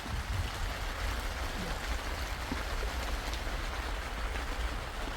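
Steady hiss of water, with a low rumble underneath.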